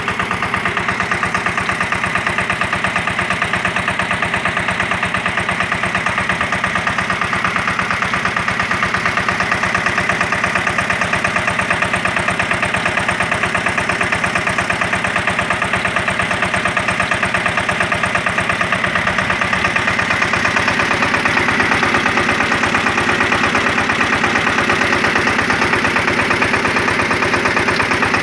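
Eicher 188 mini tractor's diesel engine running steadily at a constant speed with an even, rapid beat, driving an irrigation water pump.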